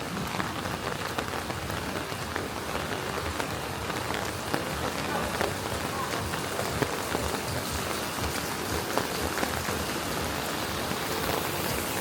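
Steady rain falling, with a dense patter of many small drop ticks.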